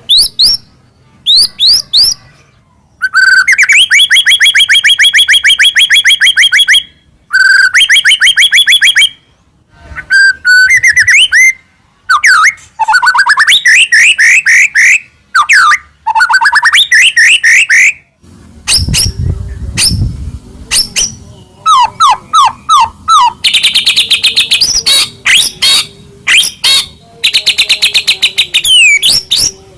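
White-rumped shama (murai batu) singing loud, varied phrases of fast repeated whistled notes and trills, broken by short pauses. A brief low rumble sounds under the song about two-thirds of the way through.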